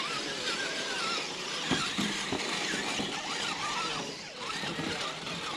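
Electric RC scale rock crawler driving over rocks: its motor whines in a wavering pitch as the throttle changes, with a few sharp knocks of the truck against the rock.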